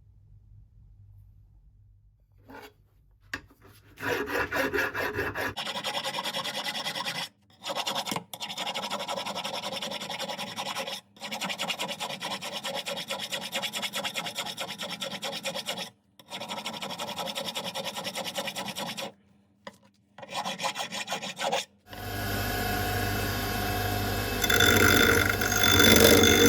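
Hand filing or rasping, rapid back-and-forth strokes in several runs of a few seconds each with short pauses between. Near the end a louder, different sound with a low hum takes over.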